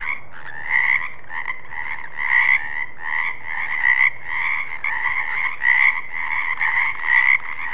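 Frogs croaking in a continuous chorus of rapid, rasping calls, with louder individual croaks standing out every second or so.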